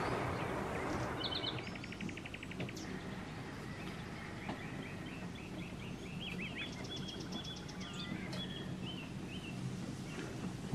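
Birds chirping and trilling over a steady low rumble, with the noise of a passing train dying away in the first second or two.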